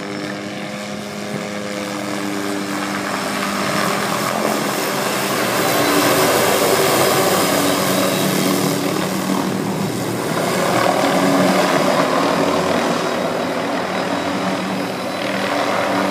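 Helicopter flying close overhead, its rotor and engine a steady drone under a broad rushing noise that swells louder twice as it passes.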